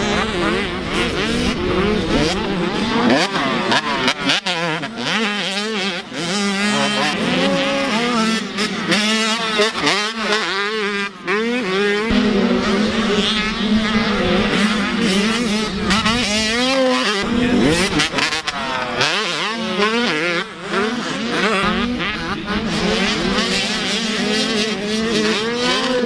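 Several motocross bikes racing, their engines revving hard and changing pitch up and down again and again as they accelerate, shift and back off, several engines overlapping.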